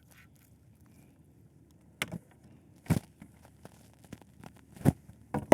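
A few short, sharp knocks on a plastic kayak, scattered about a second apart with quiet between, as a just-landed fish and tackle are handled aboard.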